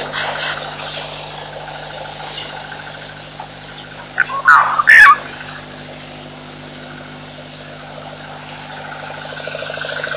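Birds calling: scattered short high chirps and a repeating trill, with a louder cluster of calls about four and a half seconds in. A steady low hum runs underneath.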